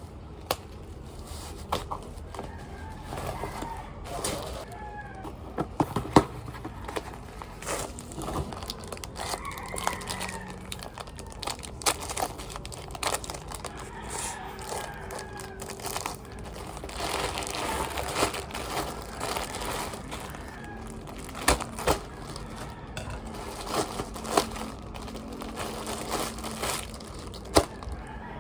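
Rooster crowing several times, with sharp clicks and knocks of things being handled and a steady low hum.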